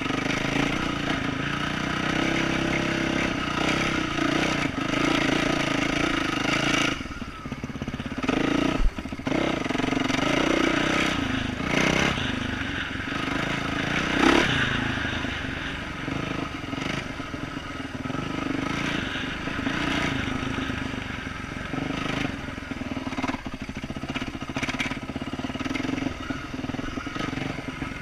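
2012 Yamaha YZ450F's single-cylinder four-stroke engine, through an aftermarket exhaust, running on the trail, its pitch rising and falling with the throttle. A few sharp knocks sound from the bike over rough ground, the loudest about nine seconds in.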